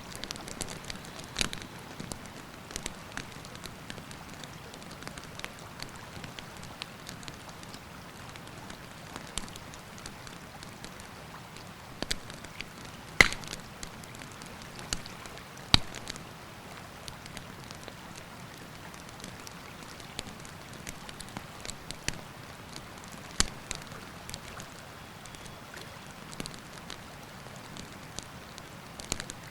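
Wood campfire crackling and snapping, with a few loud sharp pops standing out, over the steady rush of a river.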